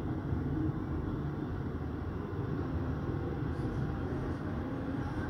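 Train running along an elevated railway: a steady low rumble.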